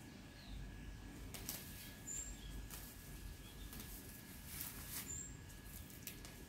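Quiet yard ambience with a few short, high bird chirps and soft, brief rustles of grass as weeds are pulled up by hand.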